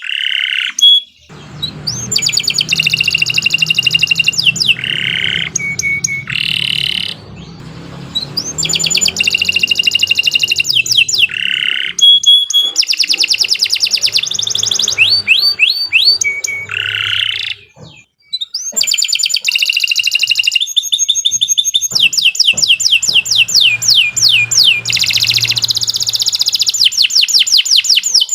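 Domestic canary singing a long, continuous song: fast trills and runs of quick repeated rising notes, in phrases broken by brief pauses.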